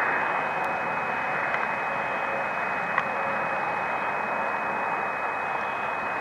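Steady, muffled wind noise on a camcorder microphone covered with plastic wrap and scotch tape, an even hiss with a faint steady high tone over it and one small click about three seconds in.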